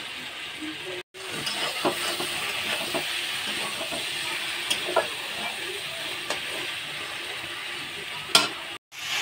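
Soya chunk, potato and papaya curry sizzling in a kadai while a spatula stirs and scrapes it, with a few sharp clicks of the spatula against the pan, the loudest near the end. This is the kashano stage: the spiced mixture is being fried down before water goes in.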